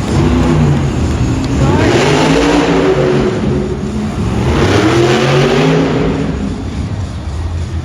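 Monster truck engine revving loudly, its pitch climbing and falling again about three times.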